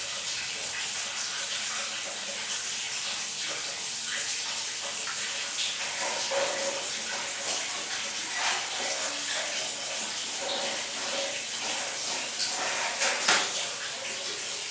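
Water running steadily in a bathroom, with a brief louder splash near the end.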